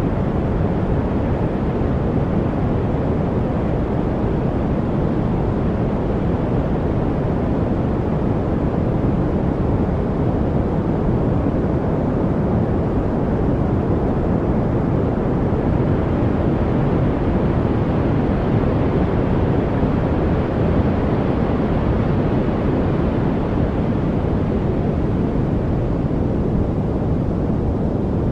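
Steady, unchanging noise track of the kind sold as study 'white noise': a deep, even rush weighted toward the low end, with no birdsong, drips or other separate sounds.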